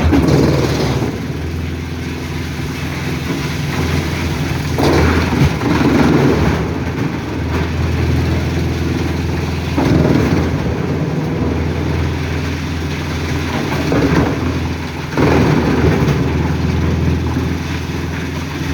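Forestry wood chipper running under load: a steady engine hum with louder, rougher surges every few seconds as logs are fed in and chipped.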